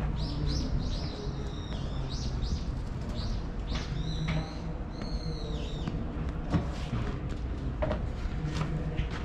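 Small birds chirping in a quick series of short, arched calls that thin out after about six seconds, over a steady low rumble.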